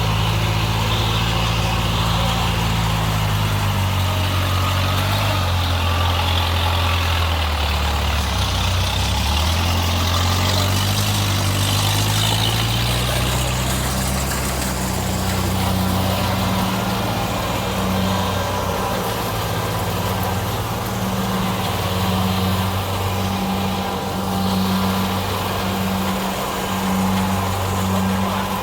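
Diesel engine of farm machinery in a rice field running under load. Its pitch falls and then rises again about halfway through as the machine works across soft ground, then settles into a steady, pulsing note.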